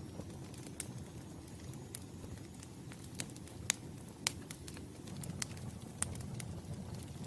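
Campfire crackling: scattered sharp pops of burning wood over a steady low rumble of flames. The loudest pops come twice, a little past the middle.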